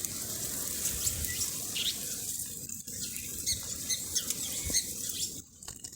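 A flock of small birds chirping and fluttering around a feeding and drinking spot, with many short, high chirps overlapping.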